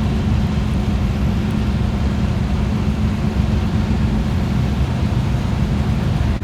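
Steady low rumble of a car engine running, even in level with no revving.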